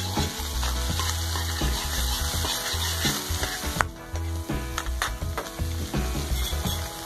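Egg and chili-garlic sauce sizzling in hot oil in a wok while a metal spatula stirs and scrapes against the pan, with sharp scrape clicks now and then, the sharpest about four seconds in.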